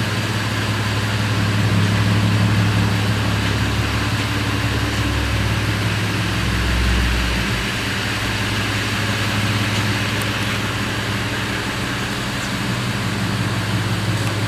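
Steady low machine hum with a strong low tone, with a brief deeper rumble about seven seconds in.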